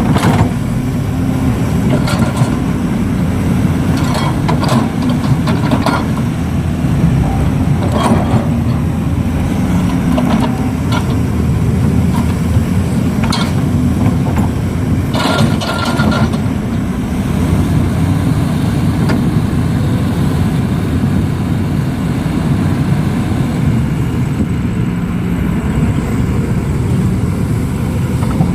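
Heavy diesel engines of a working excavator and truck running steadily, with brief knocks and scrapes now and then.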